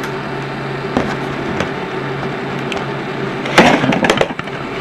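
A steady electrical hum with a few sharp clicks, then a short burst of clattering knocks about three and a half seconds in, like equipment being handled.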